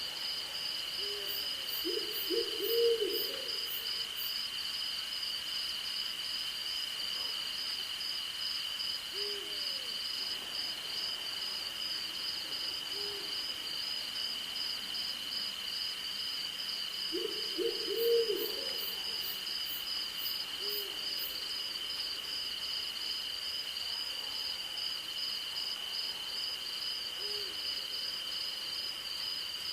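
An owl hooting: short single hoots every few seconds, with two louder runs of several quick hoots, about two seconds in and again about halfway through. Under it, crickets and other insects keep up a steady high chorus at two pitches, the upper one pulsing.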